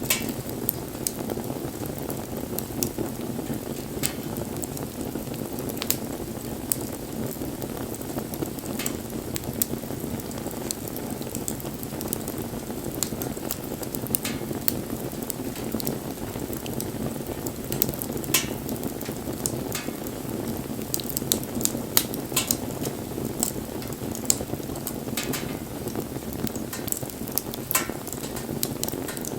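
Wood bonfire burning: a steady low rush of flames with irregular sharp crackles and pops from the burning wood.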